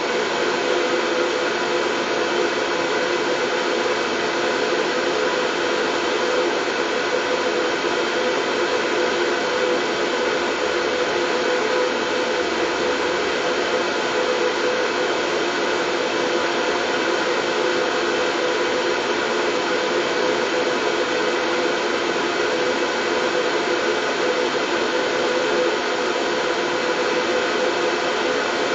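Steady, unchanging white noise for lulling a baby to sleep, fullest in the middle range with a few faint steady tones running through it.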